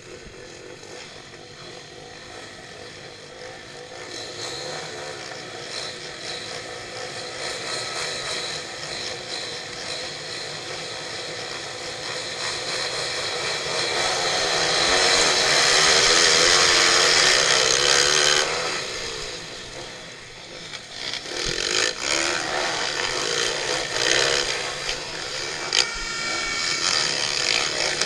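Small single-cylinder pitbike engines revving hard, building to their loudest partway through. They back off briefly, then rev up again with the pitch rising and falling as the throttle and gears change.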